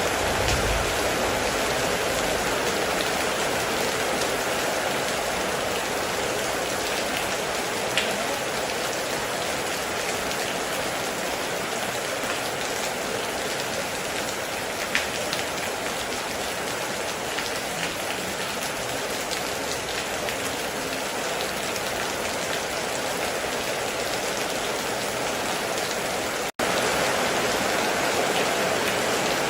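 Heavy rain falling steadily, with a few louder single drops standing out about eight and fifteen seconds in. Near the end the sound cuts out for an instant and resumes.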